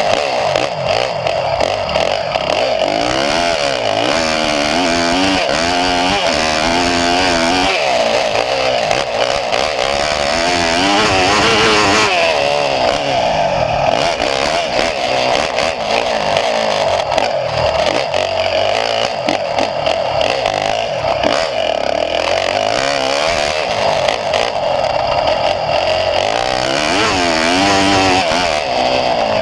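A small engine running continuously, its pitch wavering up and down.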